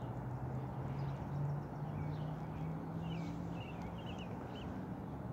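Quiet outdoor lakeside sound: a small bird twitters a few quick chirps in the middle, over a faint low steady hum.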